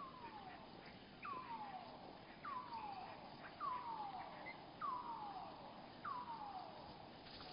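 A bird's call slowed to one-third speed: a series of six descending slurred notes, one a little over a second apart, each gliding down in pitch.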